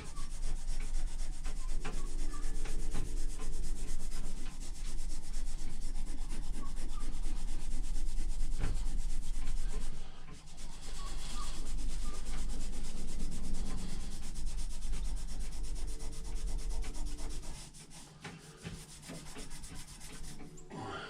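Scotch-Brite abrasive pad scrubbed by hand over the steel of an axe head, polishing off rust. It pauses briefly about halfway through and stops near the end.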